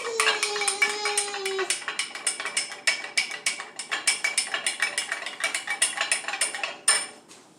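A utensil clicking rapidly against a small bowl, about eight strokes a second, as the honey mustard dressing is whisked together; it stops about seven seconds in.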